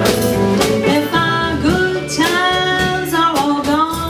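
Live folk music: a woman singing a slow chorus line with acoustic guitar accompaniment.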